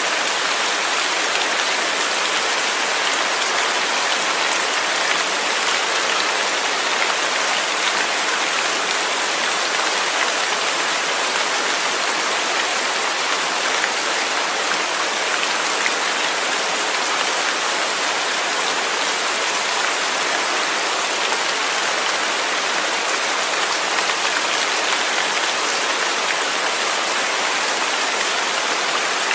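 Rain falling steadily, an even hiss of countless drops that stays level throughout.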